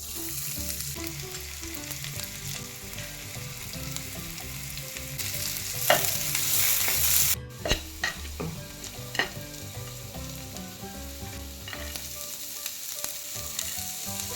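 Food sizzling in hot oil in a pan: a steady hiss that swells for a couple of seconds about halfway through, then drops sharply. A few sharp clicks of a spatula against the pan come over it.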